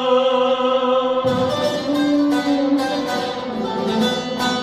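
Turkish folk song: a singer holds one long note that breaks off about a second in, then plucked strings play a quick instrumental phrase of many separate plucks.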